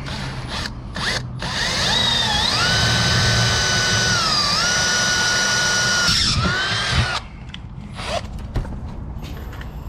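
Power drill running for about six seconds, its whine rising as it spins up, dipping briefly midway as it bogs under load, then stopping. A few light knocks come just before it.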